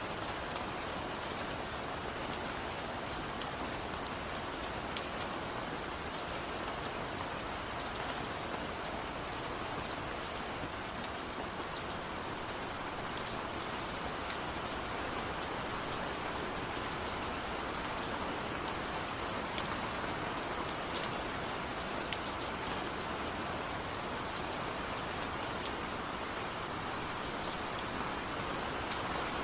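Steady rain falling, a constant hiss with scattered sharp drop ticks on a hard surface.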